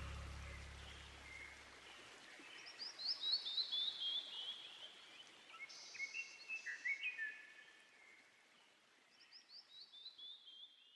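Birdsong: fast runs of short, downward-slurred chirps, one starting about two and a half seconds in and another near the end, with other short whistled calls between them. The tail of a music track fades out in the first two seconds.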